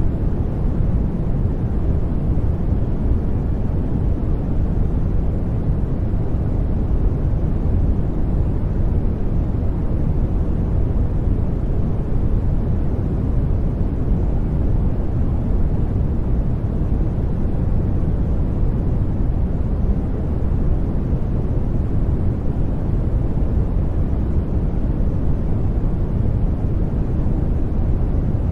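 Sleep-noise track: a constant, even hiss weighted toward the bass, heard as a deep rumbling rush with little treble and no change in level.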